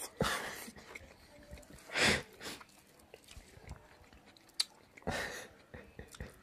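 Close-up eating sounds of a man chewing and smacking handfuls of rice and pork fat, coming in several separate wet bursts, the loudest about two seconds in.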